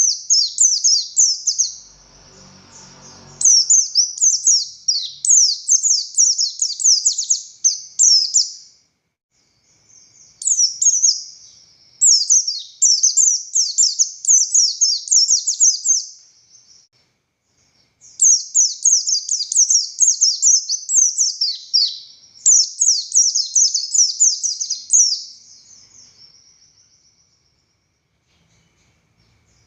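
White-eye (pleci buxtoni) singing vigorously: long phrases of rapid, high chirping notes, each phrase several seconds long, broken by short pauses. A faint low rumble comes in briefly a couple of seconds in.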